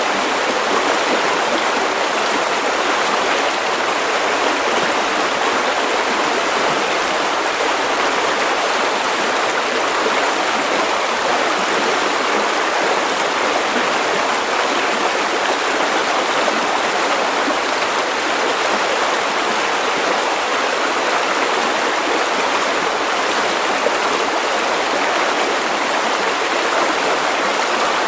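River water running over stones, a steady rushing and burbling.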